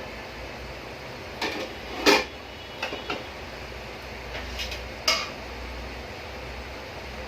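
A cooking utensil knocking and scraping against a pan several times while stirring frying cauliflower, over a steady hiss. The loudest knock comes about two seconds in.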